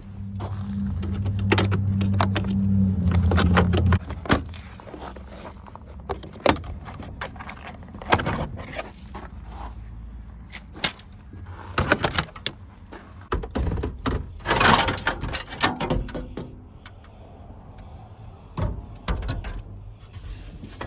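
A low steady hum for about the first four seconds, then a string of irregular clicks, snaps and knocks as the plastic interior trim of a truck cab is pried off and handled.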